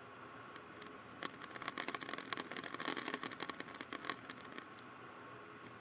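Faint hiss on an aircraft headset intercom line, with a run of irregular crackling clicks from about one second in until nearly five seconds in.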